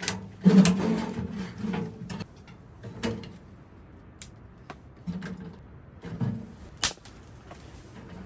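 Scattered knocks and clunks of wood and metal, about five sharp ones, from a wood stove being loaded and lit.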